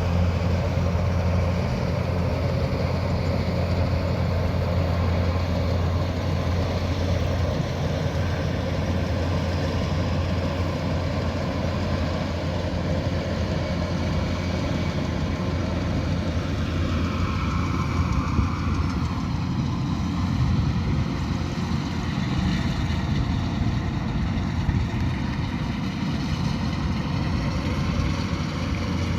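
Kubota DC108X combine harvester's diesel engine and threshing machinery running steadily, with a strong low hum; a higher tone drops and then rises again about two-thirds of the way through.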